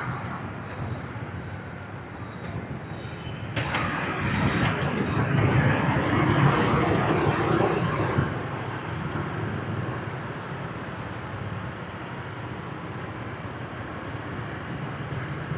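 Motorbike traffic noise heard while riding: a steady low rumble of engines and road noise, with a louder rush of noise that starts suddenly about four seconds in and drops off abruptly about four seconds later.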